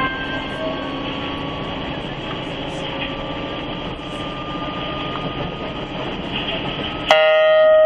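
Inside a JR Hokkaido KiHa 183 series diesel railcar, the train runs with a steady, even rumble. Near the end a louder held tone with overtones starts suddenly, and the low rumble drops away.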